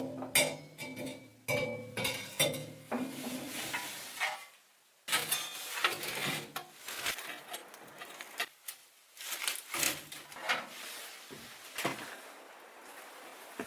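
Cookware and metal utensils clinking, knocking and scraping in a quick irregular series. There is a brief break about five seconds in, then more scattered clinks.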